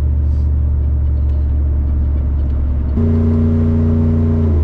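Tow vehicle's engine and road noise with a steady low drone while driving with a car trailer hitched. About three seconds in, the engine note steps up higher and louder, holds for over a second, then drops back near the end.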